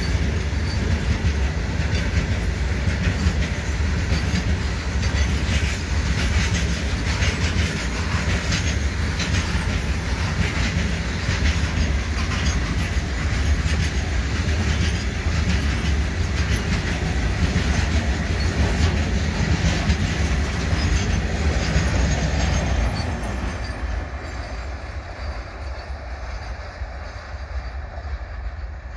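Open freight wagons of a goods train rolling past close by: a steady low rumble with the clatter of wheels on rail. About 23 seconds in the sound drops off as the end of the train passes and moves away.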